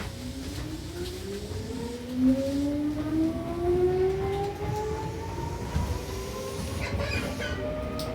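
Seibu New 2000 series electric train accelerating, with its traction motors whining in several tones that rise steadily in pitch over a rumble from the running gear.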